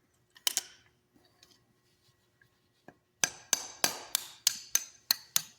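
Hammer blows on a steel punch, driving the pin out of a cogwheel on a Massey Ferguson 224 baler's knotter. There is a single ringing metal strike about half a second in, then from about three seconds in a quick, steady run of blows, about four a second.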